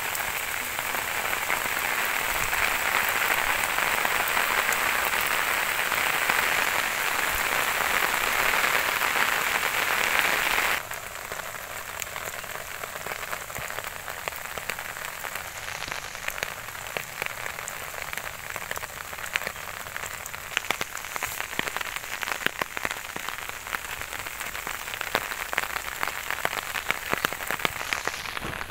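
Steady rain. It is a loud, full hiss for the first ten seconds or so, then drops abruptly to a quieter patter with many fine, separate drop ticks.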